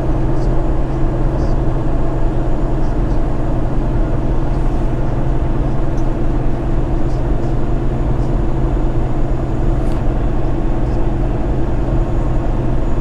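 A semi truck's diesel engine and road noise heard from inside the cab while it cruises at steady highway speed: a constant low drone that does not rise or fall.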